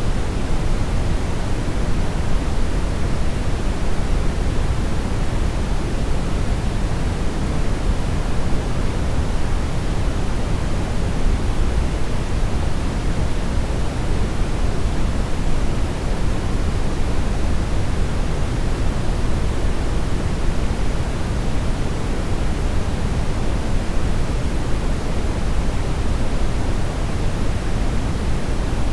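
Steady brown noise: an even, unchanging rumbling hiss, strongest in the low end and falling away toward the highs.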